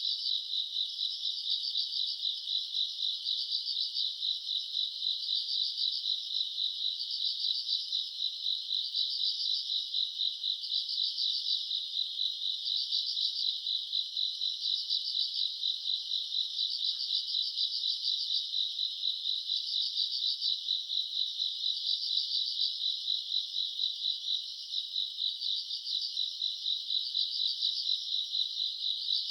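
A chorus of summer night insects chirping steadily: a fast continuous trill underneath, with louder chirp phrases swelling about once a second.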